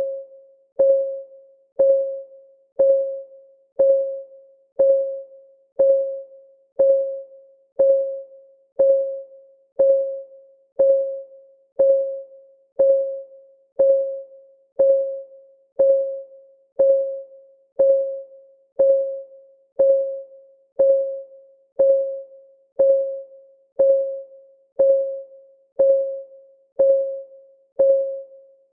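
Ticking timer clock sound: a short, pitched tick about once a second, each ringing briefly on the same note before fading.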